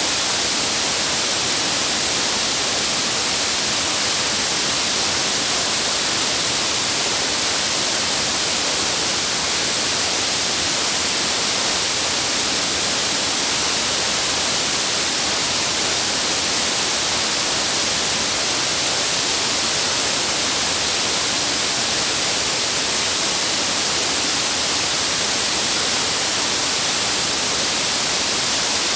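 Waterfall's falling water rushing in a loud, steady, unbroken hiss.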